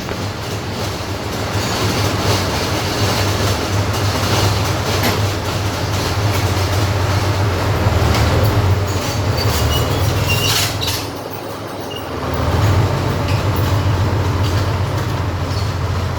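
Armoured recovery vehicle's engine running loud and steady with a deep, low drone. The sound eases briefly about eleven seconds in, then comes back up.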